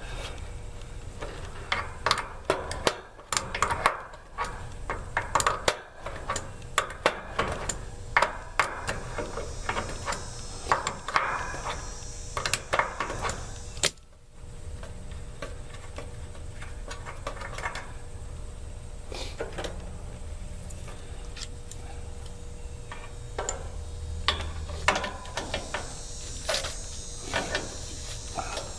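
Repeated small metal clinks, taps and clicks of hand tools and metal parts being handled at an air-conditioner condensing unit, over a steady low hum.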